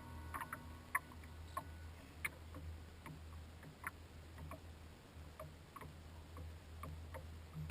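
Kayak on the water: faint irregular drips, clicks and light knocks over a low steady rumble.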